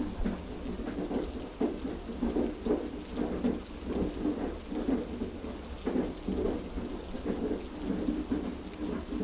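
Heavy rain falling steadily, with many small irregular hits and a continuous low rumble underneath.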